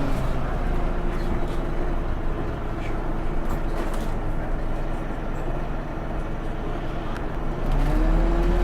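Scania OmniLink single-decker bus engine running at low revs, then revving up near the end with a rising whine as it gets louder.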